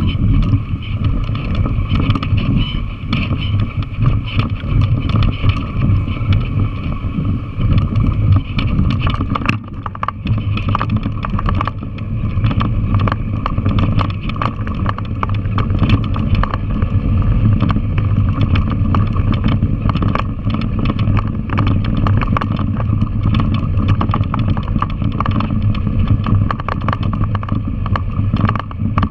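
Yamaha TW200's single-cylinder four-stroke engine running steadily while the dirt bike rides a rocky trail, with frequent rattles and clicks from the bike jolting over the stones.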